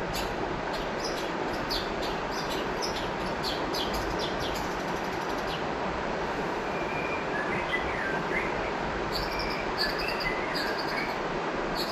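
River water flowing steadily, with songbirds calling over it: rapid high chirps through the first half, then short whistled phrases from about seven seconds in.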